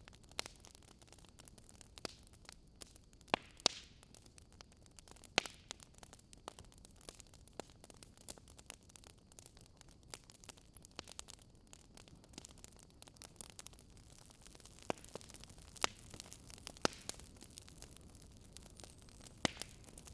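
Wood fire crackling: irregular sharp pops and snaps, a few louder than the rest, over a steady low hiss.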